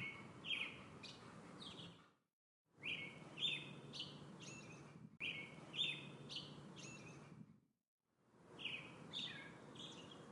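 A songbird singing. Each short phrase is a few quick notes that slide downward, with a low background hiss. The phrase comes four times, each fading in and out, with brief silences between.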